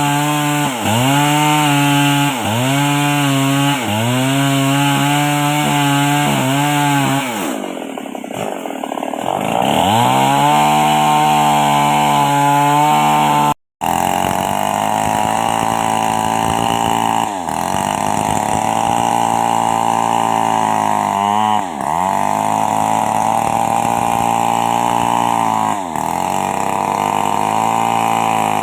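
An old two-stroke chainsaw ripping a coconut palm trunk lengthwise. Its engine pitch sags and recovers about every second and a half as the chain bites. About seven seconds in it falls away low and revs back up, then runs on with longer cuts between dips.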